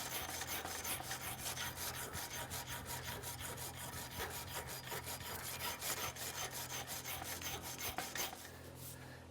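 Hand sanding block scrubbed rapidly back and forth on a steel horseshoe, a quick, even run of rasping strokes that stops near the end.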